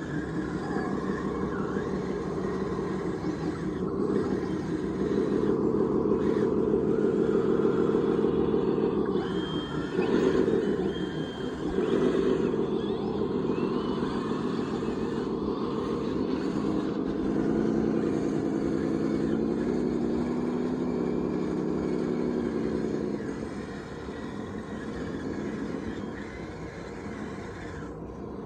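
Radio-controlled construction machine model running, with a steady motor or engine note whose pitch and loudness rise and fall as the machine works.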